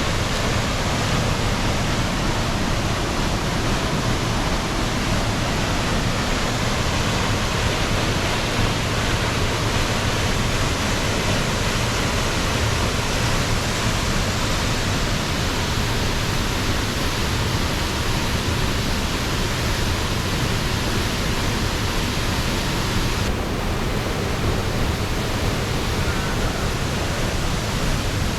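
Falling water rushing steadily as one dense, unbroken wash of noise.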